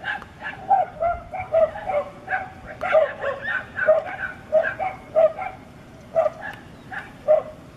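A dog yelping over and over in short, high calls, about two a second, which stop near the end.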